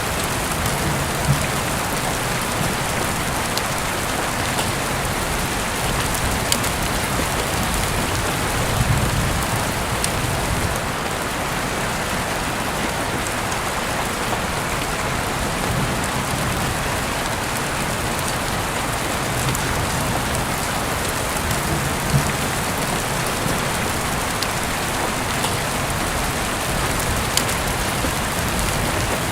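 Heavy rain falling steadily, with a few sharper individual drop hits standing out now and then.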